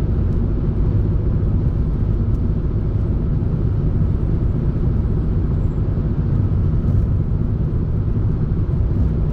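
Steady road and engine rumble heard from inside the cabin of a car being driven.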